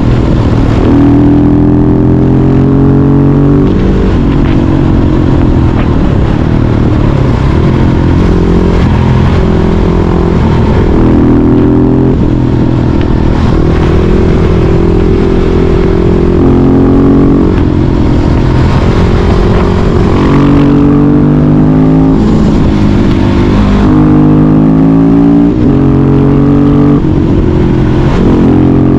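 Husqvarna 701 Supermoto's single-cylinder engine with a Yoshimura exhaust, running loud under way. Its pitch holds for a few seconds, then shifts up or down, over and over.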